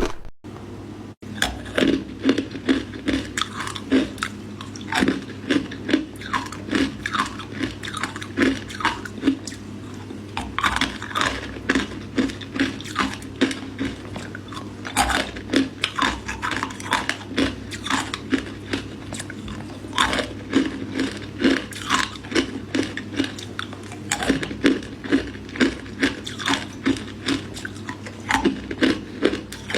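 Matcha ice being bitten and chewed close to the microphone: a steady run of crisp crunches, one or two a second, after a brief pause near the start.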